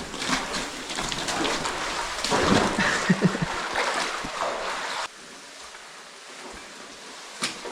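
A caver sliding down a slick mud slide in a cave: a rushing, scraping noise broken by short knocks, loudest about two to three seconds in. It cuts off abruptly about five seconds in, leaving a fainter steady rush, with one sharp click near the end.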